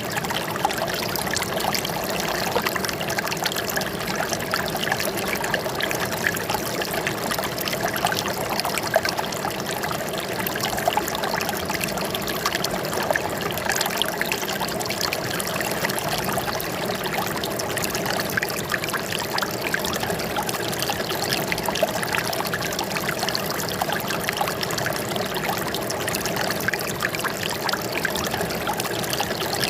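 Running water trickling and splashing steadily, with no pauses.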